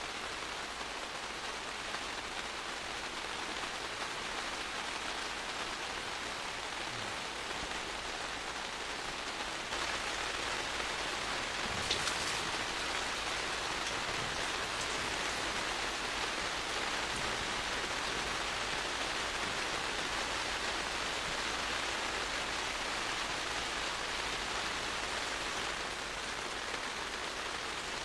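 Steady rain falling, a little heavier from about ten seconds in, with one brief sharp tap a couple of seconds later.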